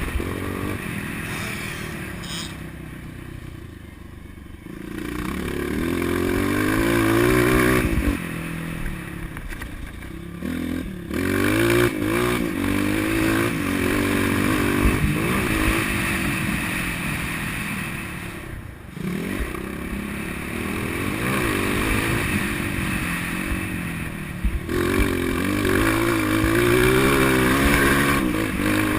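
Motocross bike engine being ridden hard, its pitch climbing and falling again and again as the rider opens and closes the throttle, with brief lulls where the throttle is shut off a few times.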